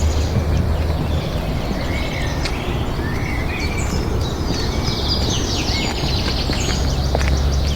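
Small birds chirping and singing, with a fast trill from about five to seven seconds in, over a steady low rumble.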